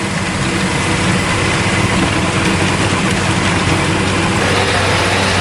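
A heavy soil-tilling machine working the ground: its engine runs steadily under load, with a low hum and a constant dense mechanical clatter over it.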